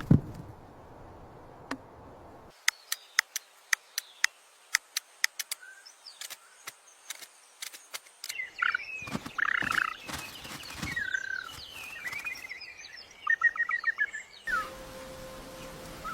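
A run of sharp clicks, about two a second, followed by birds chirping and calling, with a quick trill near the end.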